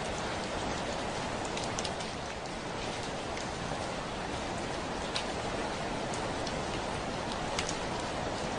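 Steady heavy rain falling on a window, an even hiss with a few sharp drop ticks scattered through it.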